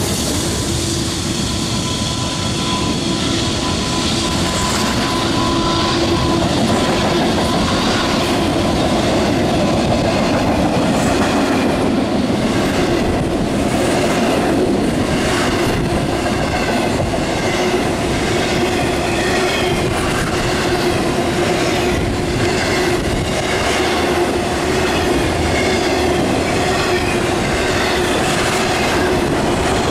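Norfolk Southern intermodal freight train passing close by. The trailing GE Dash 9-44CW diesel locomotive goes by at the start, then a long string of container and trailer well cars follows. The wheels clatter over the rail joints, heaviest midway, over a steady wheel squeal.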